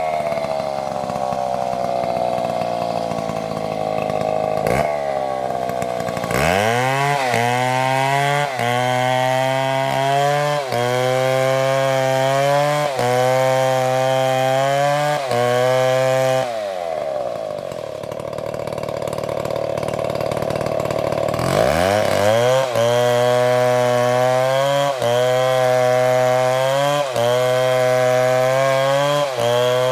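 Chainsaw engine running and cutting. It revs up about six seconds in, its pitch wavers in an even cycle about every two seconds, then it drops low and revs back up again.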